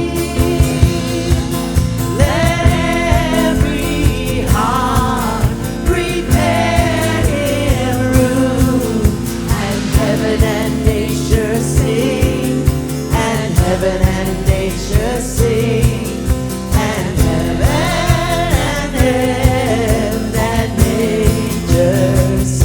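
Live worship band playing a traditional Christmas carol, with voices singing over a steady drum beat.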